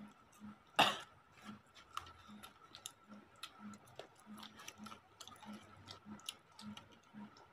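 Close-up eating sounds: people chewing and smacking their lips as they eat rice and curry by hand, a string of small wet clicks with one louder smack about a second in.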